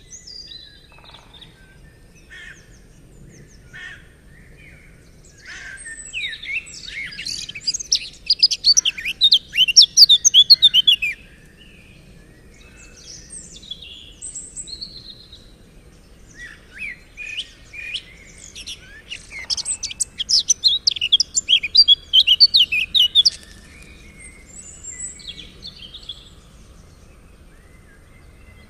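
Songbirds singing: two long bouts of rapid, twittering song, each lasting about five or six seconds, with scattered single chirps and calls before, between and after them.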